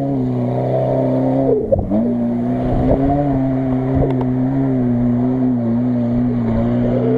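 Off-road SUV engine running at steady, fairly high revs as it pushes through mud, with a brief dip and stumble in the engine note about a second and a half in.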